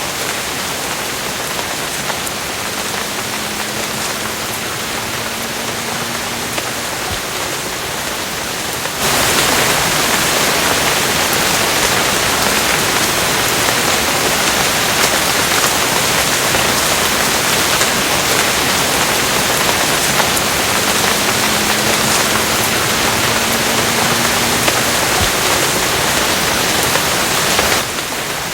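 Steady rain, which jumps abruptly to a louder, heavier downpour about a third of the way in and drops back just as suddenly near the end.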